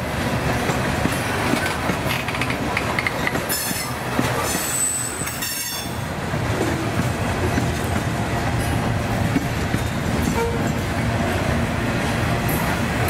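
A train's railcars rolling past, a steady rumble of wheels on rail with a couple of brief high-pitched wheel squeals about four and five and a half seconds in. Strong wind buffets the microphone.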